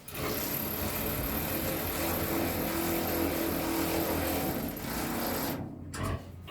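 Electric drill with a 1/4" bit running steadily for about five and a half seconds, with a faint motor whine, then stopping.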